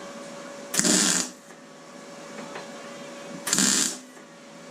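Two tack welds on car door sheet metal, about three seconds apart, each a half-second burst of welding-arc crackle and buzz. A faint steady hum runs underneath.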